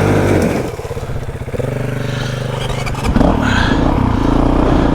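Dirt bike engine running, held low at first and then revved up about three seconds in.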